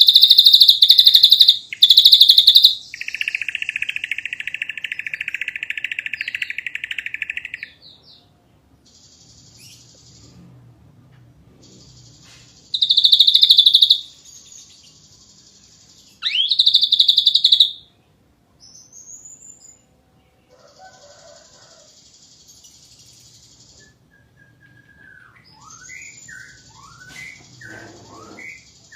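Ashy drongo singing a varied song. It opens with loud harsh buzzy notes, then gives a long rapid buzzing trill lasting several seconds. Fainter buzzes, two more loud bursts, each led by a quick rising sweep, and near the end a run of short falling whistles follow.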